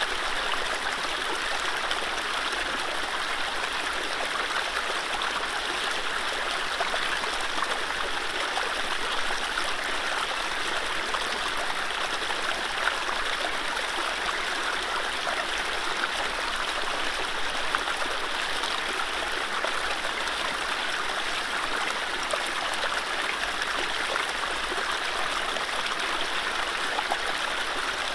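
Mountain stream running over low rapids: a steady, even rush and babble of water with small splashes, no birdsong.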